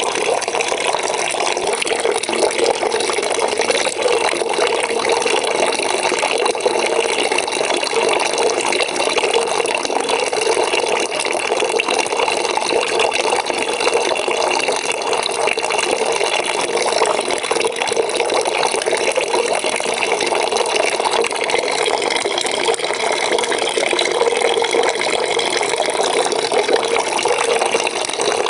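Water from a tap pouring steadily into a bucket that is filling.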